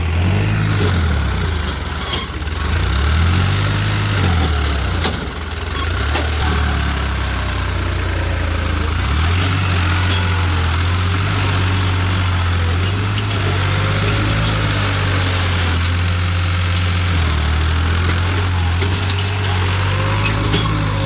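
A 4WD tractor's diesel engine runs hard; it revs up and eases off a few times in the first seconds, then holds steady. The load comes from pulling a trolley stuck in wet ground.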